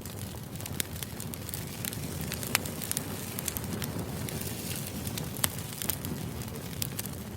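Steady low rushing noise scattered with irregular sharp crackles and pops, a crackling white-noise background.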